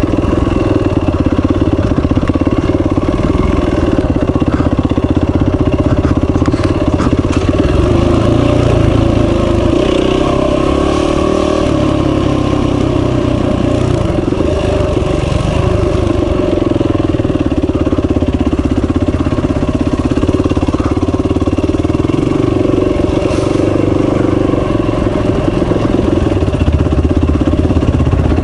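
Dual-sport motorcycle engine running while riding a rough dirt trail, its pitch rising and falling with the throttle. A few short knocks from the bike over the rough ground.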